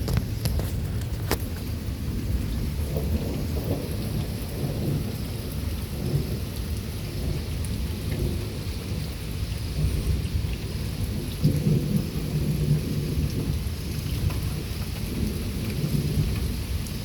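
Severe thunderstorm: strong wind and rain make a continuous, rising-and-falling low rumble, with a few light clicks about a second in.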